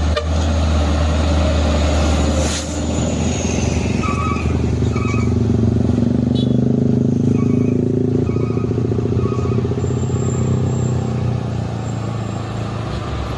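Heavy truck's diesel engine labouring up a steep incline, its note building and holding for several seconds mid-way. A few short high beeps come in two quick groups around the middle.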